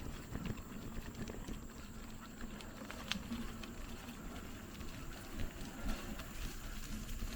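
Bicycle rolling over a rough dirt trail: tyres crunching and the bike rattling, with many scattered small clicks and knocks.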